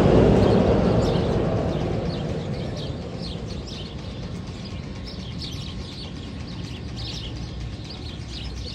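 A loud rushing rumble at the start that fades away over about three seconds, leaving a steady low background with birds chirping repeatedly.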